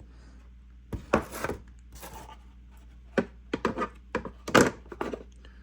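Handling noise from a chainsaw and its plastic bar cover: a run of irregular clicks, knocks and rubs as they are moved about.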